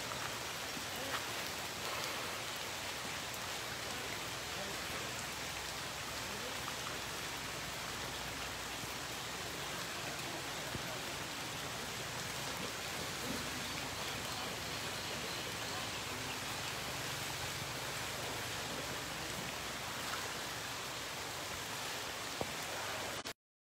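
Steady rain falling on grass and puddles, an even hiss with no breaks; it cuts off abruptly to silence just before the end.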